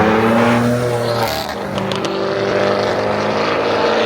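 Car engines running loud as cars pull away, one revving up and then easing off about a second in.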